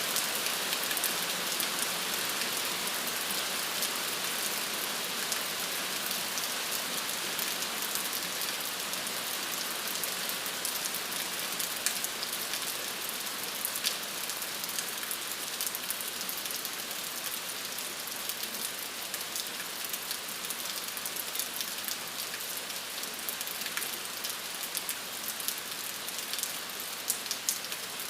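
Steady rain falling and pattering on surfaces, a constant hiss dotted with the ticks of individual drops, a few of them sharper.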